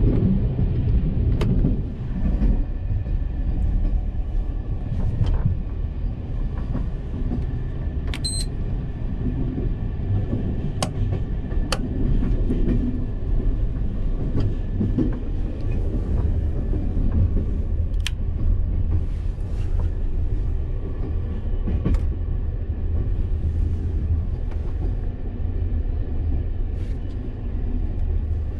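Steady low rumble of a ZSSK WLAB sleeper coach running on the rails, heard from inside the compartment, with a few scattered sharp clicks. About a third of the way in comes one short high-pitched beep, the beep the compartment's main light always gives when it is switched on.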